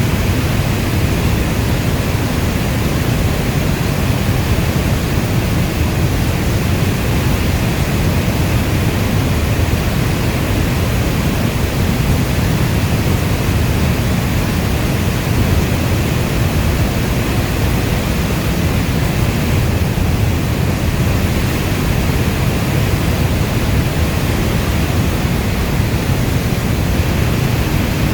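Steady heavy rainfall, an even deep rushing noise with no single drops or claps of thunder standing out.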